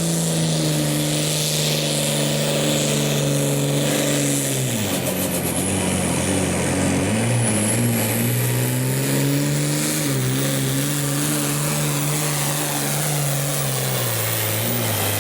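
Hot stock pulling tractor's turbocharged diesel engine running hard under load. Its pitch sags slowly, drops sharply about five seconds in, climbs back and then lugs down again toward the end as the sled's load builds.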